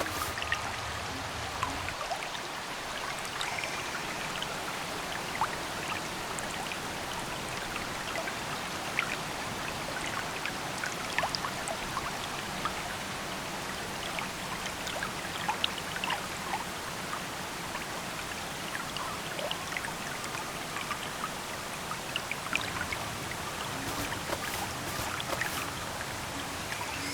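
Water running steadily, with many small drips and splashes scattered through it.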